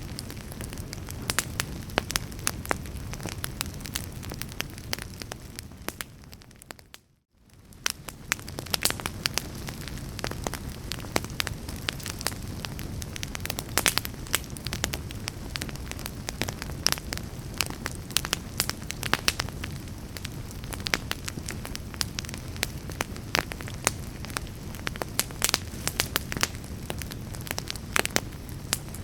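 Wood fire in a fireplace crackling and popping steadily over a low rumble of burning. About seven seconds in, the sound fades briefly to near silence and then fades back in.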